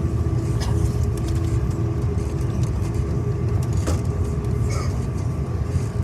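Steady low rumble inside an Airbus A330 cabin as the airliner taxis after landing, with the engines humming at idle and a few faint ticks.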